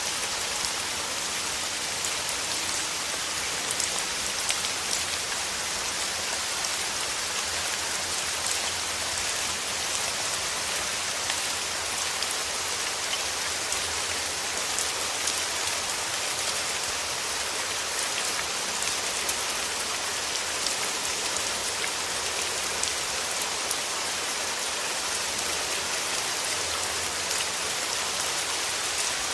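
Steady rain falling, a constant hiss dotted with many small, close drop ticks.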